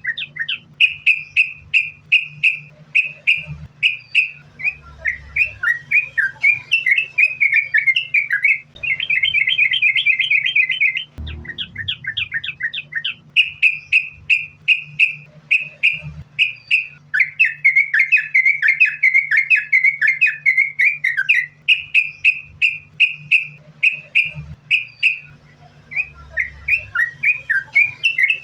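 Sooty-headed bulbul (trucukan) singing without a break: quick runs of short whistled notes, about four or five a second, with stretches of faster chatter. This is the continuous, non-stop song called sambung ropel. A faint steady low hum runs underneath.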